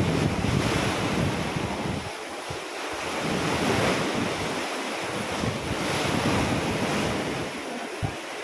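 Ocean waves washing on a shore, the surf swelling and easing in slow surges, with wind buffeting the microphone in low rumbles.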